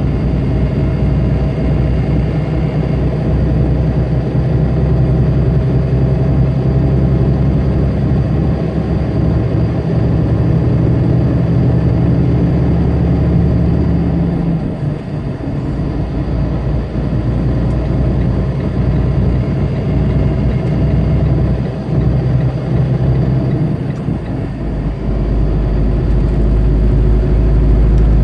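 Tractor-trailer's diesel engine running under way, heard from the cab with road noise. Its note changes about halfway through, and a heavier low rumble builds near the end.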